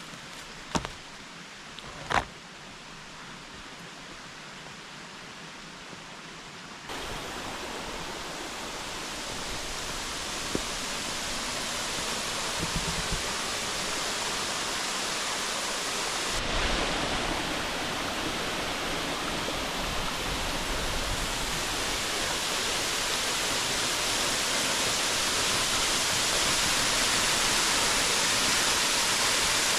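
Steady rushing of a waterfall running full after heavy rain, growing louder in two steps and then gradually as it is approached. Two sharp clicks come in the first few seconds.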